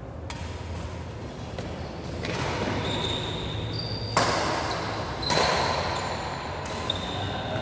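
Badminton play in an indoor sports hall: several sharp racket hits on the shuttlecock, the loudest about four and five seconds in, with short high squeaks and the hall's echo.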